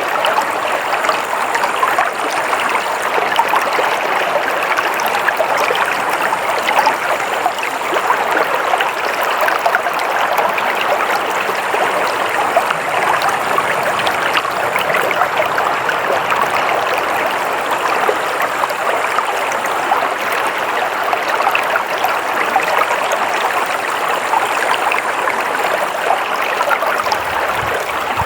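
Stream water flowing and splashing in a steady rush, with fine crackling trickles throughout.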